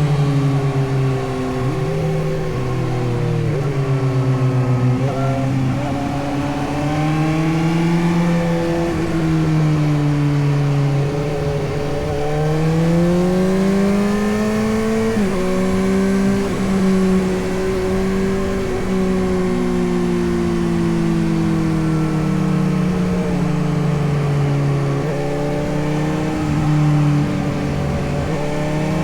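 Suzuki GSX-S750's inline-four engine running under way, its pitch rising and falling as the rider speeds up and eases off, with a few quick drops in pitch.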